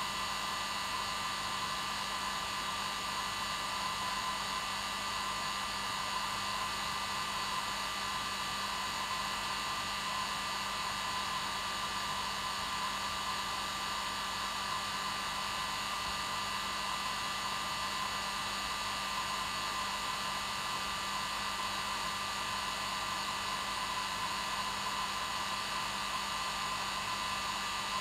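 Electric hair dryer running steadily: an even rushing noise with a constant whine and a low hum that never changes.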